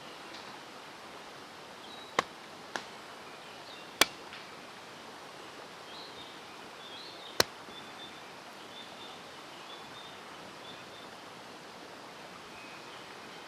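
Steady rush of a mountain stream with faint high bird chirps, broken by four sharp, irregular knocks, like wood or gear being struck, the loudest about four seconds in.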